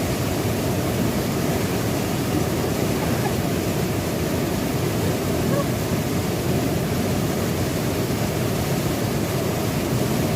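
Waterfall running: a steady, unbroken rush of falling water, heaviest in the low range.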